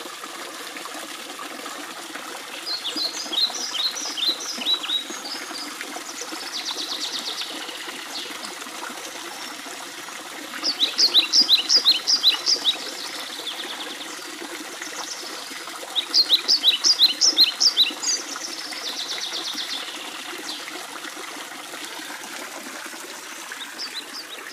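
A songbird singing the same song three times, each a quick run of high, clear notes followed by a buzzy trill. Underneath is a steady hiss of trickling water.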